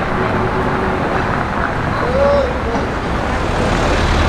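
Steady city street traffic noise: engines and tyres of passing vehicles, with faint voices mixed in.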